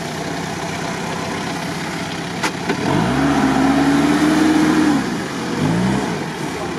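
Toyota Land Cruiser 70 off-roader's engine revving: the note climbs about three seconds in, holds for about two seconds, drops back, then rises again briefly near the end. A single sharp click comes just before the first rev.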